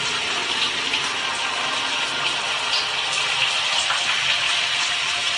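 A steady rushing hiss, like running water, with faint clicks scattered through it.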